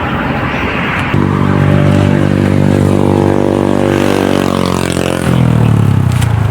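A motor vehicle engine passing by, coming in about a second in and holding a steady pitch. Its pitch then drops as it goes past, near the end.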